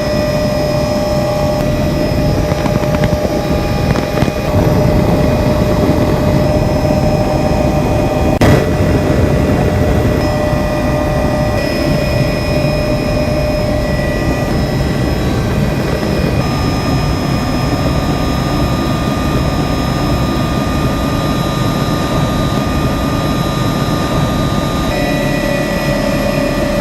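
Helicopter in flight heard from inside the cabin: a steady, loud drone of the rotor and turbine engine with a constant high whine. There is a single sharp click about eight and a half seconds in.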